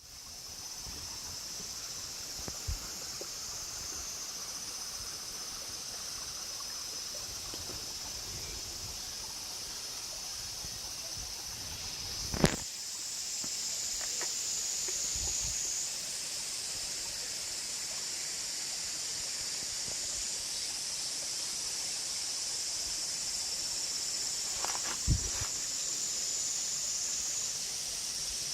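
Steady high-pitched hiss of outdoor mountain ambience, with a few soft knocks and one sharp knock about twelve seconds in.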